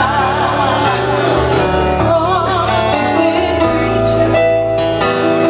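Gospel duet singing with instrumental accompaniment: a lead voice with a wide, wavering vibrato over steady held chords and bass.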